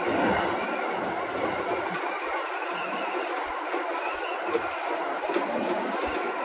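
Keio Line electric commuter train running along the track: a steady noise of wheels on rails.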